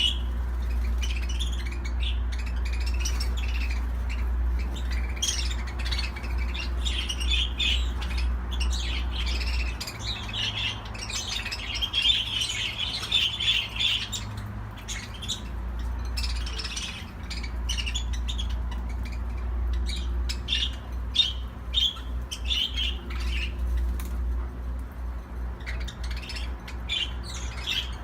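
Pet budgerigars chattering and warbling, with many short, high chirps and squawks following one another almost without a break. A steady low hum runs underneath, dropping out for several seconds in the middle.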